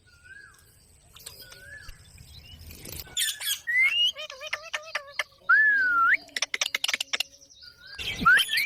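Pet parrot calling in a string of short rising and falling whistles and chirps, with a quick run of clicks past the middle and a loud harsh squawk near the end.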